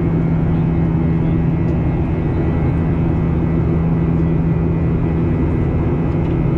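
Cabin noise inside a Boeing 737-800 with CFM56-7B engines: a steady jet-engine and airflow drone under a constant low hum.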